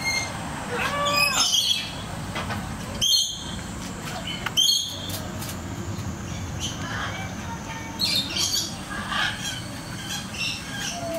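Birds squawking with short calls at intervals over a steady low outdoor background, with two sharp clicks around three and five seconds in.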